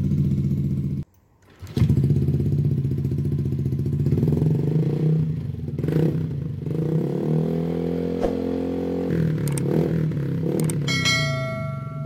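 Yamaha Aerox scooter's single-cylinder engine running through an aftermarket racing exhaust, idling with a steady exhaust note. The sound cuts out for under a second about a second in, then the engine idles again and is revved up and back down in the middle.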